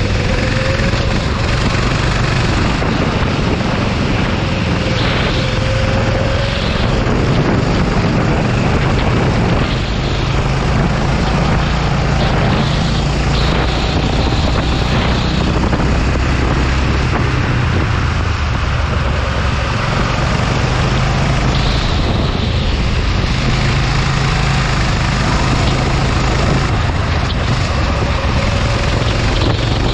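Go-kart engine running hard, its revs rising and falling over and over, with a loud rushing noise of wind and wet track underneath.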